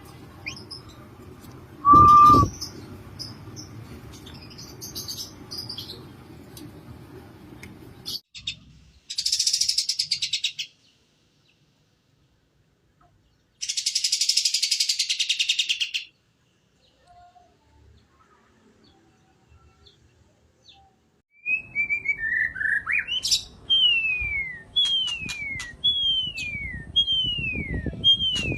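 Recorded songbird calls from several separate recordings with silent gaps between them: chirps over background noise with one loud whistle about two seconds in, then two bursts of rapid, high buzzy trilling, then a series of whistled notes, each falling in pitch, about one a second near the end.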